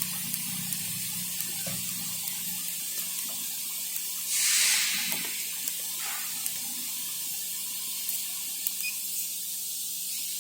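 Steady hiss of gas from the cutting machine's oxy-fuel flame torch, with a louder rush of hiss lasting about a second, four seconds in.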